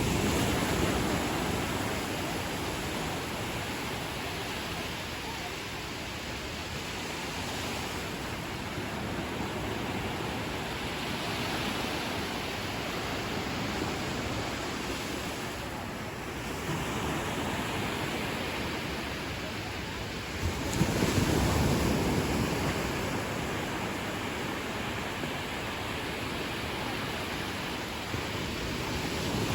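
Ocean surf washing onto a beach, a continuous rushing wash of breaking waves. One louder wave surges in at the start and another about two-thirds of the way through.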